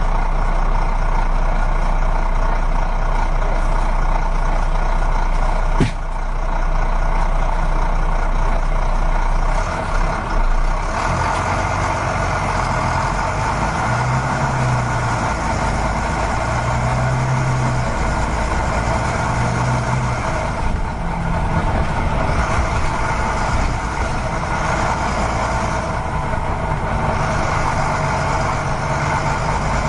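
A heavy vehicle's engine running steadily, with its pitch swelling and easing a few times in the middle and a single sharp click about six seconds in.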